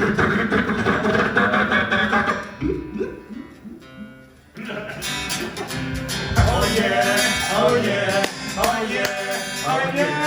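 Mouth-made noise effects from a vocal impressionist trailing off, then after a short lull, about four and a half seconds in, acoustic guitar music starts with a voice over it.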